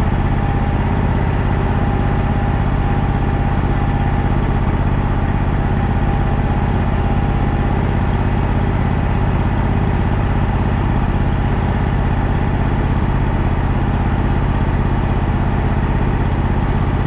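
Wood-Mizer portable band sawmill running steadily while milling a pine log, its engine note heavy and even with a steady whine above it.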